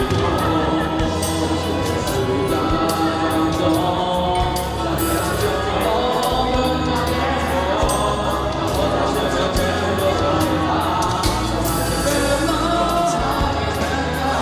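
A Mandarin pop-rock ballad sung over loud backing music with a steady bass and drum beat.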